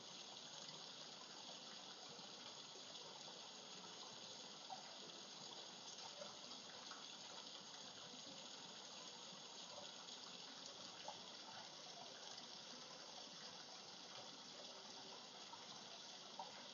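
Faint, steady rush of running water with small splashes here and there: a waterfall ambience.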